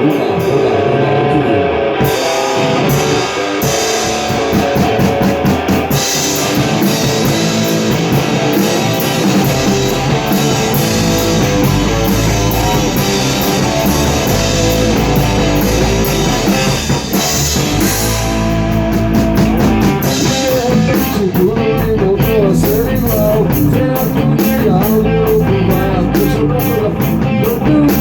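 Rock band playing live in rehearsal: guitar and drum kit, with steady cymbal strokes coming in about two seconds in and a heavier low end from about ten seconds in. No singing.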